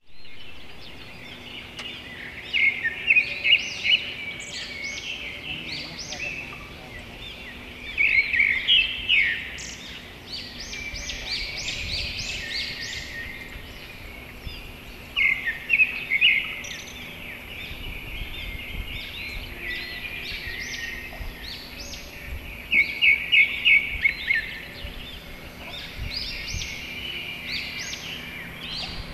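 Birds chirping in quick bursts of short, rapidly repeated high notes, coming every few seconds, over a steady outdoor background noise.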